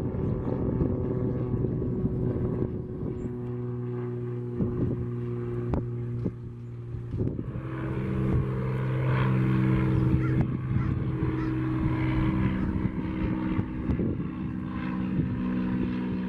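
Light single-engine piston airplanes with propellers running steadily: a Cessna T210L Turbo Centurion, then, about seven seconds in, a Cessna 182T takes over with a differently pitched drone.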